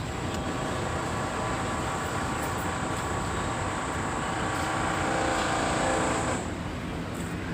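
A machine running with a steady hum, several held tones and a high whine, cutting off about six seconds in.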